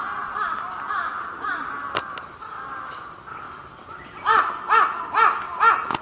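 A bird calling in a loud, even series of repeated calls, about two a second, each rising and falling in pitch, starting about four seconds in; fainter calls come before it.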